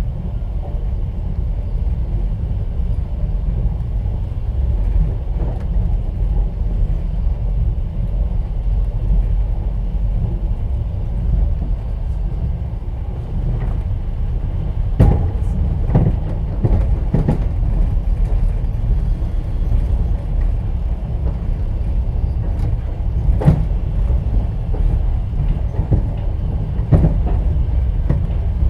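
Inside a moving passenger train carriage: the steady low rumble of the running train, with sharp wheel clacks over the rail joints, several of them in the second half.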